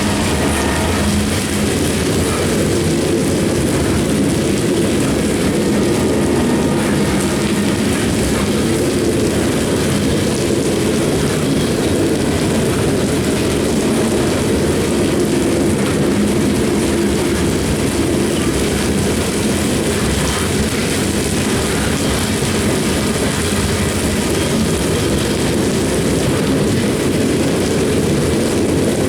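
CSX coal train rolling past: a loud, steady rumble of wheels on the rails.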